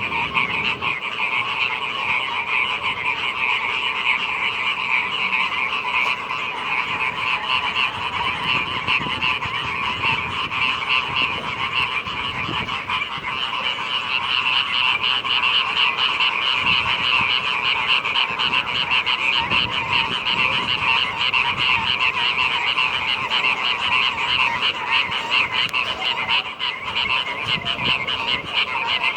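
A chorus of many frogs croaking together without pause, their rapid pulsed calls overlapping into a dense, steady din with a higher and a lower layer of voices. It is a rainy-season chorus, the calling that starts when the rains arrive.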